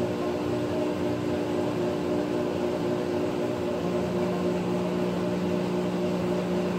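Maytag top-load agitator washing machine running: a steady motor hum with held tones, a lower tone coming in about four seconds in.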